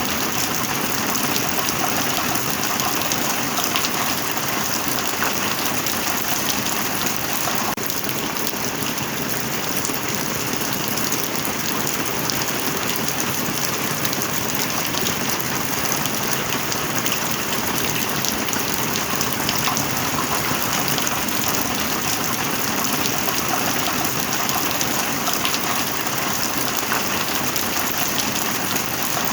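Heavy rain falling steadily: a dense, even hiss of rain on a surface, speckled with countless small drop ticks.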